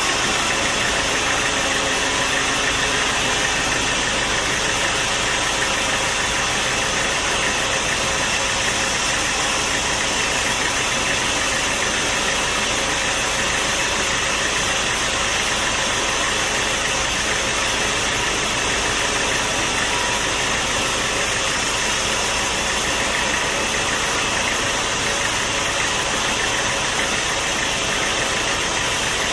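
Sawmill machinery running steadily: an even, unbroken mechanical noise with no pauses or changes.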